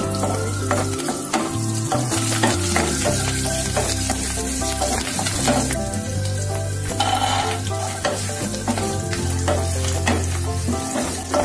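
Hot oil sizzling in a kadai as curry leaves, green chillies and then peanuts fry, with a wooden spatula stirring and knocking against the pan, over background music.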